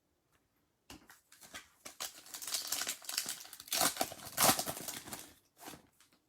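Trading-card pack wrappers being torn open and crinkled: a dense run of rustling and tearing that starts about a second in and dies away near the end.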